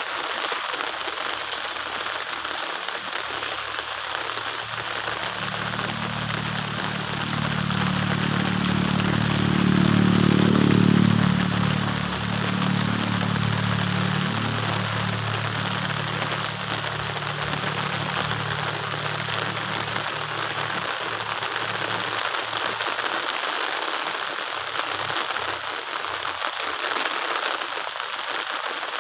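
Steady rain falling. A low hum builds from about five seconds in, is loudest around ten seconds, and fades away by about twenty-two seconds.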